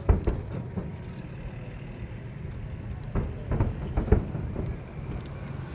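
Fireworks shells bursting: a run of deep booms near the start and another cluster about three to four seconds in, over a steady low rumble.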